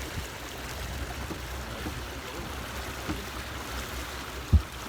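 Wind rumbling on the microphone and water rushing along a sailing yacht's hull under way, with a single sharp thump about four and a half seconds in.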